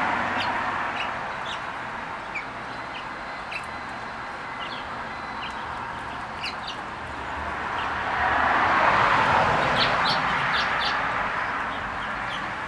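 Small birds, finches, giving many short, high chirps throughout. Under them a vehicle passes, its rush fading early and swelling again, loudest about nine seconds in.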